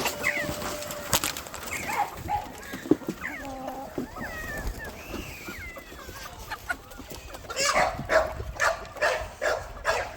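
Chickens clucking and calling, with a run of louder, quick repeated calls in the last couple of seconds.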